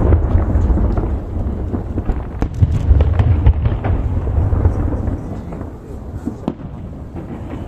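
Aerial fireworks shells bursting: deep rolling booms with many sharp cracks in quick succession, easing off over the last couple of seconds.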